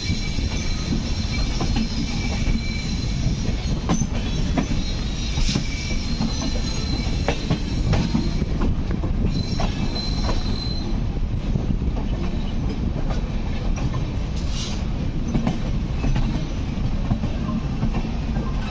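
Passenger train heard from its open coach door as it runs through station-yard pointwork: a steady rumble of wheels on rail, with irregular clicks over rail joints and points. Thin high wheel squeal carries through about the first half, then fades.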